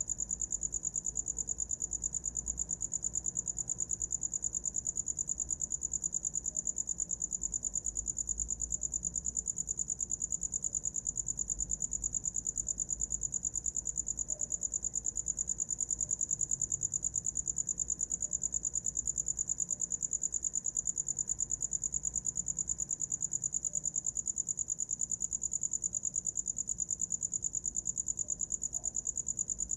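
A cricket chirping in a fast, even, unbroken pulse on one high, steady pitch.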